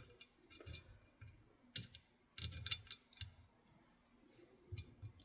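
Small metal bolts being handled and fitted back into a ceiling fan motor housing: a scattering of light clicks and clinks, with a small cluster about two and a half seconds in.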